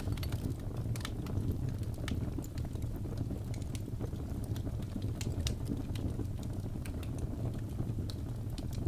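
Fireplace burning: a steady low rumble of flames with irregular sharp crackles and pops from the burning wood.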